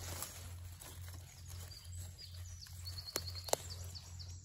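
Quiet outdoor ambience: faint birdsong, with a short rapid trill about three seconds in. A low hum pulses underneath throughout, and two sharp clicks come near the end.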